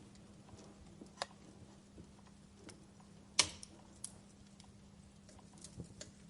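Wood fire crackling in a fireplace: sparse, irregular small crackles, with a sharp pop about a second in and a louder one just past the middle.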